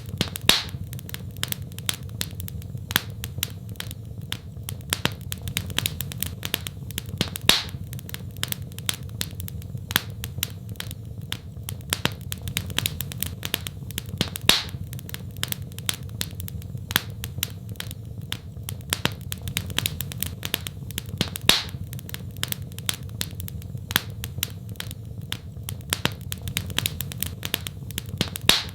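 Wood fire crackling in a fireplace: a dense run of small snaps, with a louder pop about every seven seconds, over a steady low rumble.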